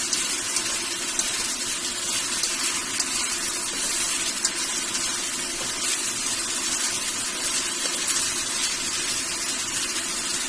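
Marinated boneless chicken frying in a pan with garlic and onion, sizzling steadily with small crackles.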